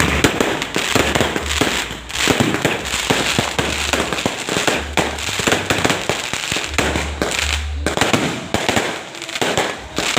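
Many fireworks and firecrackers going off at once: a dense, unbroken crackle of sharp bangs and pops, with a low rumble in stretches.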